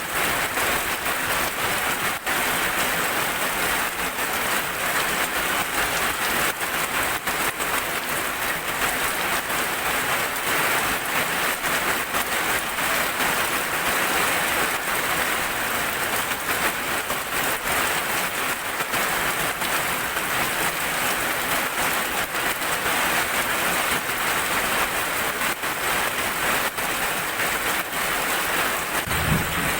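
Heavy rain falling steadily, a dense even hiss of drops. Near the end there is one brief low thump.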